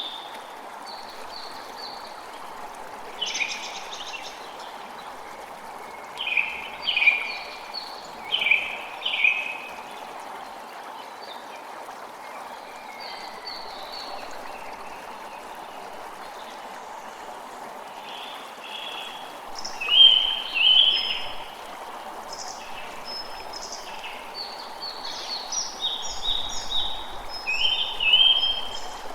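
A creek flowing with a steady rush of water, with birds chirping in short bursts of calls over it, loudest around six to nine seconds in, again about twenty seconds in, and near the end.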